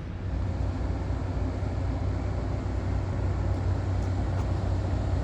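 Steady low engine rumble with a broad noisy wash over it, getting a little louder about half a second in.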